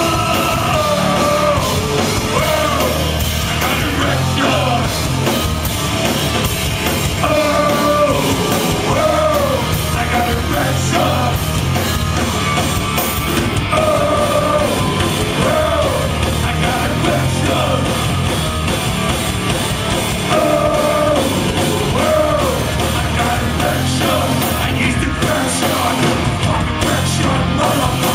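Loud rock song in a punk or metal vein, with a full band mix and a melodic phrase that bends and repeats every few seconds; yelled or sung vocals come and go.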